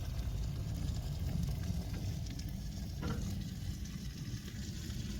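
Diced chicken with onion, bell pepper and green chilies frying and sizzling in a pan, over a steady low rumble.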